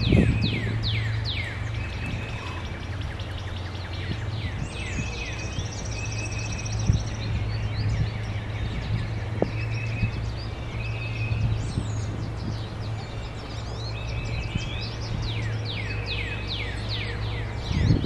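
Songbirds calling and singing: quick runs of high, downward-sliding notes at the start and again near the end, with short buzzy trills repeated in between. A steady low hum runs underneath, and there is a brief low rumble at the start and the end.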